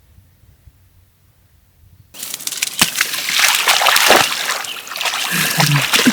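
A border collie splashing through water: after a quiet start, loud splashing and sloshing starts suddenly about two seconds in and keeps going, with sharp splatters throughout.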